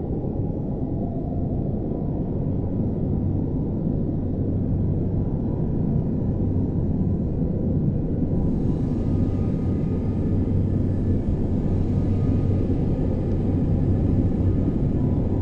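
Steady low rumble, growing slightly louder, that turns brighter about eight seconds in.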